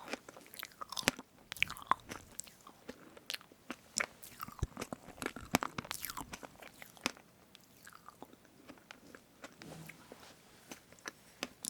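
Close-miked eating of strawberry whipped-cream cake: wet chewing with many small sticky mouth clicks and smacks, busiest in the first half and thinning out after about eight seconds.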